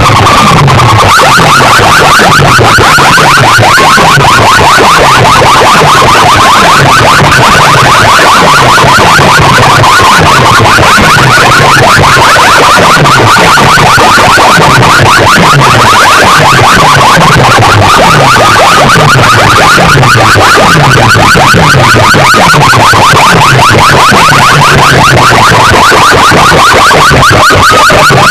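Horn-loudspeaker sound systems at a mike competition, playing competition audio at full, distorted volume. A wavering, siren-like high tone runs over a bass beat that falls in pitch and pulses several times a second.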